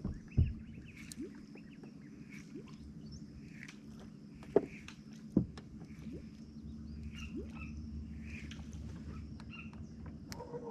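Quiet mangrove creek background: a low steady hum under many faint short chirps. Three sharp knocks stand out, one about half a second in and two more about a second apart near the middle.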